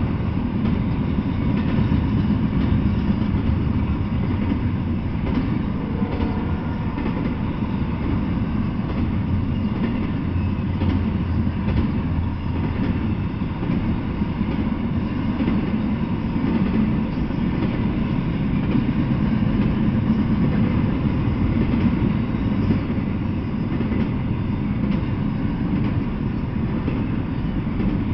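Double-stack intermodal freight train rolling past, its well cars' wheels making a steady rumble on the rails.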